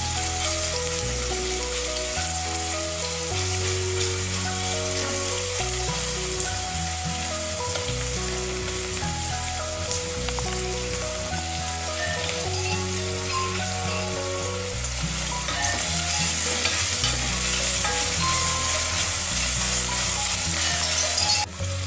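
Sliced onions sizzling as they fry in hot oil in a pressure cooker, stirred and scraped with a spatula, over soft background music.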